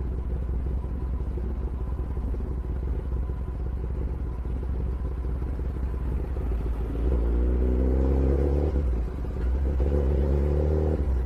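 Sportbike engine idling with a steady low rumble, then revved twice, the second rev starting about two and a half seconds after the first.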